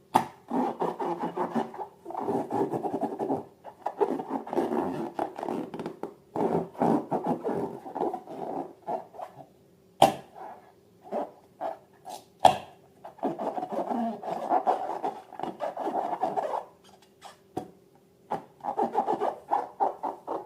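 Rubber balloons being rubbed and squeezed by hand, giving repeated squeaky, rubbing bursts of a second or two each. A few sharp clicks come near the middle.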